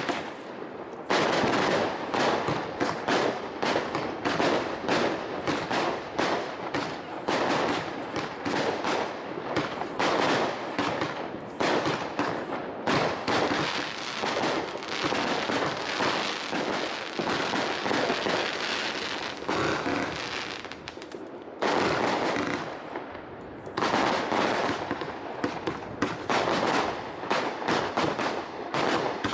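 Professional fireworks display: dense, rapid-fire bangs from shell bursts and crackling effects, with two short lulls about two-thirds of the way through.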